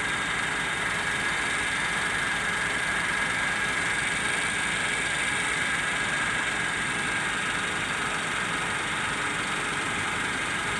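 A motor vehicle's engine idling steadily, with a steady high-pitched whine running above it.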